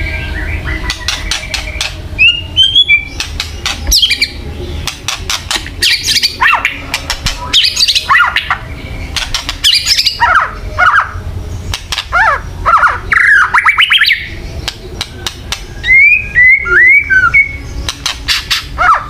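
White-rumped shama giving its agitated crackling 'kretekan' calls: rapid runs of sharp clicks mixed with short whistled notes and squawks, the excited sound used to provoke fighting mood in other shamas. A low rumble sits under it throughout.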